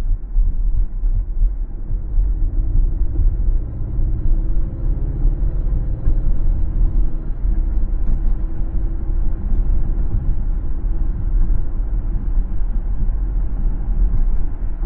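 Car driving on a road: a steady low rumble of road and engine noise, with a faint engine hum rising gently in pitch from about two seconds in.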